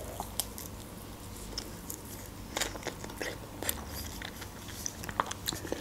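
Biting into and chewing a fresh strawberry close to the microphone: quiet, irregular small mouth clicks.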